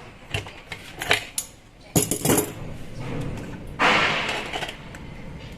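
Metal parts of a rotary hammer clinking and knocking as they are handled during disassembly: several sharp clicks and knocks, then a short scrape about four seconds in.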